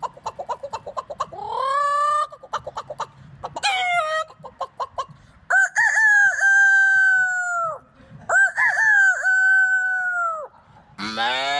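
A man imitating farm animals with his voice: rapid hen-like clucking and short rising calls, then two long rooster crows each held about two seconds. Near the end a low, cow-like moo begins.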